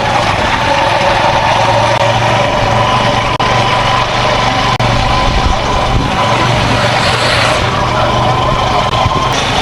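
A motor running steadily, with a steady high whine over a low hum.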